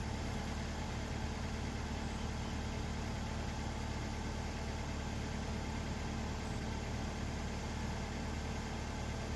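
A vehicle engine idling steadily, a constant low hum with no change in pace.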